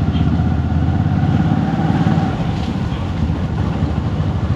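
Motorcycle engine running steadily as the bike rides along the road.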